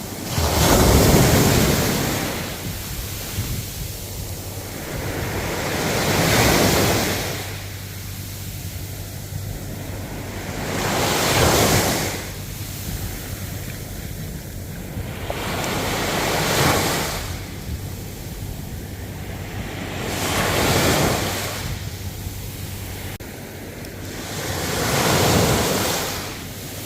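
Ocean waves breaking and washing in surf, six swells rising and falling about every five seconds over a constant hiss of water.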